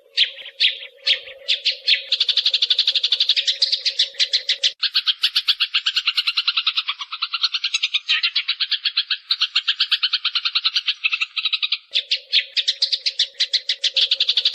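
Eurasian tree sparrows chirping in fast, unbroken trains of chirps, many per second, with a low steady hum behind the first and last parts. The run changes abruptly about five and twelve seconds in, as in a spliced bird-training recording.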